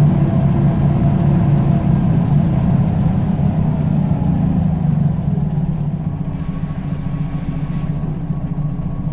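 Scania L94UB bus's diesel engine running under steady load, then easing off about five seconds in, getting a little quieter and lower.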